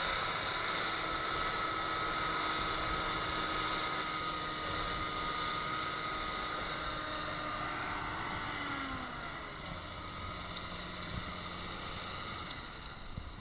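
Tractor engine running hard at steady high revs, then the revs drop off about two thirds of the way through, with wind buffeting the microphone.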